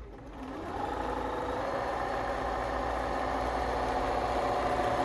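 Bernina B325 sewing machine starting up and then running steadily as it sews a satin stitch, a mechanical hum that grows slowly louder.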